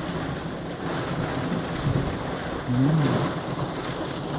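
Hail and rain beating down steadily on a roof and window during a thunderstorm.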